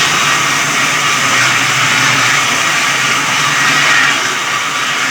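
Electric sawmill saw cutting through a log: a loud, steady, hissing cutting noise over the running motor.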